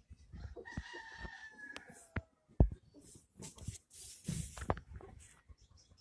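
A bird calling once, a drawn-out call lasting nearly two seconds that falls in pitch at its end, amid scattered clicks and knocks; a sharp knock just after the call is the loudest sound.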